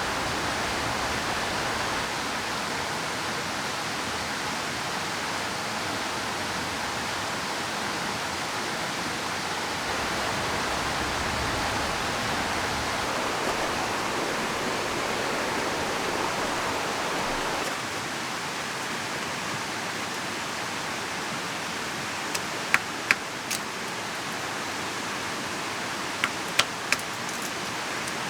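Steady rushing of a river mixed with rain, dropping slightly in level a bit past halfway. A few sharp clicks come near the end, in two small clusters.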